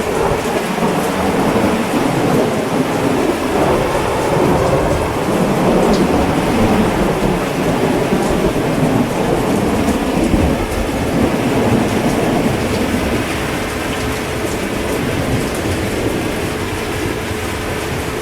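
Heavy rain falling steadily, with a long rolling rumble of thunder that swells right at the start and eases off in the last third.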